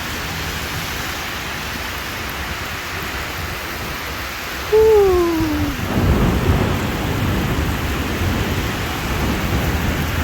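Heavy rain falling steadily. About five seconds in there is a short falling tone, and then a long, low rumble of thunder builds and rolls on.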